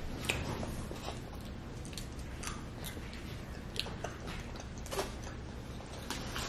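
People chewing and eating, with scattered small mouth clicks and smacks over a steady low background hum.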